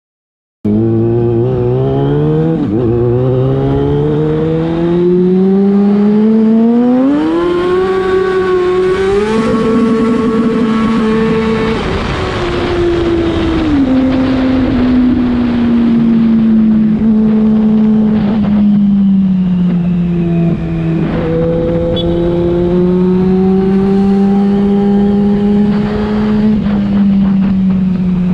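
Yamaha FZ6 inline-four engine through a LeoVince aftermarket exhaust, pulling away and accelerating. The revs climb in steps over the first ten seconds or so, with short dips at the gear changes, then ease off to a steadier, slightly rising and falling cruise.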